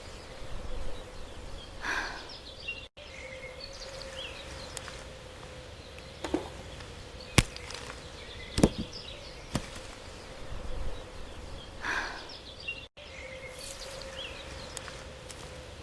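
Outdoor nature ambience: short bird chirps over a steady insect-like hum, with a few sharp knocks scattered through it, in the manner of chopping or kitchen utensils.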